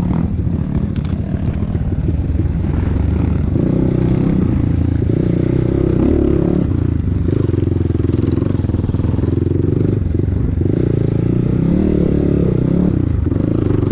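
KEWS K16 PRO enduro motorcycle engine running and revving, its pitch rising and falling as the throttle is opened and closed.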